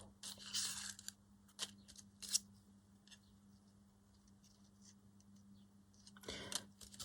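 Faint scissors snipping paper, mixed with paper being handled, in a few short bursts with a quiet stretch in the middle.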